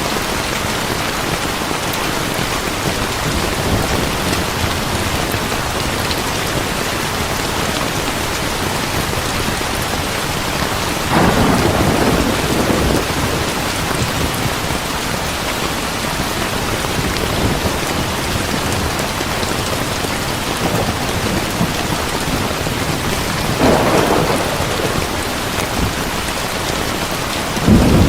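Heavy steady rain with thunder: two long rolling rumbles that swell and fade, about eleven and twenty-four seconds in, and a short, sharper, deeper clap near the end.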